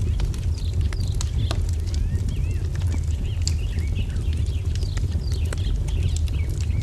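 Wood fire crackling with scattered sharp pops over a steady low rumble, while many small birds chirp in short, overlapping rising-and-falling calls.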